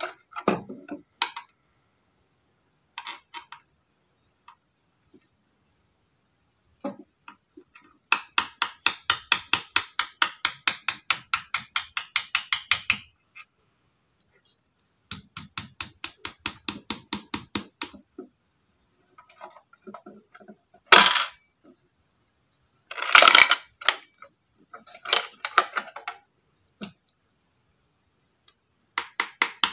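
Plastic clicking and knocking from a miniature toy vending machine being handled: two long runs of rapid, even clicks at about eight a second, then a few separate sharp knocks and short rattles.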